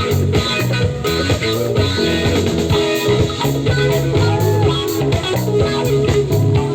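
Live psychedelic trance band playing: guitar lines over a bass line and a steady drum beat.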